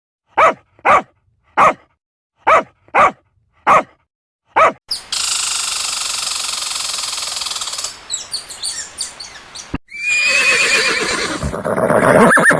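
Seven short animal calls about two-thirds of a second apart, then a steady hiss with some clicks, then a louder, longer animal call from about ten seconds in.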